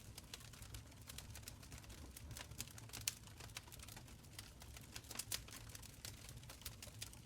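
Wood fire crackling in an open stone fireplace: irregular sharp pops and snaps, a few louder ones about three and five seconds in, over a faint low rumble of the flames.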